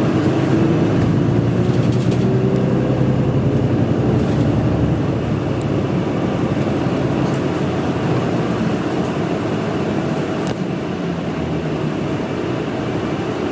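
Route bus's diesel engine and drivetrain running, heard from inside the passenger cabin. The pitch rises over the first few seconds as the bus accelerates, then settles to a steady cruise.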